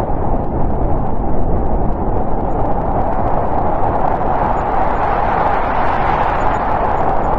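Snowstorm wind blowing steadily: an even, continuous rush of noise, strongest in the middle range, with no gusts standing out.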